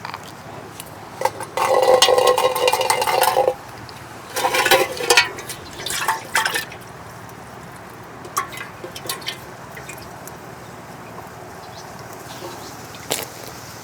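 Liquid being poured into a container for about two seconds, then two shorter pours or splashes, with a few light clicks afterwards.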